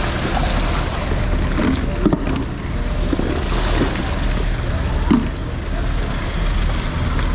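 Harbour ambience: a steady low rumble under continuous wind and water noise, with faint distant voices now and then.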